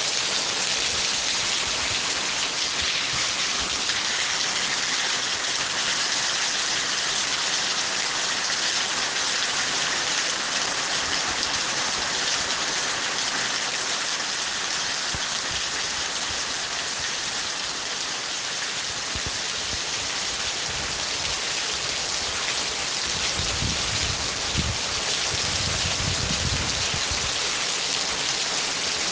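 Steady rain falling, an even patter. A low rumble rises under it for a few seconds near the end.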